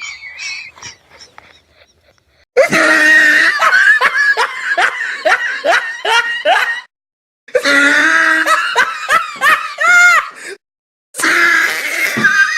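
Loud, hearty human laughter in rhythmic pulses, played as separate laugh clips that cut off abruptly, with two brief silences between them; one clip ends in a rising high-pitched squeal.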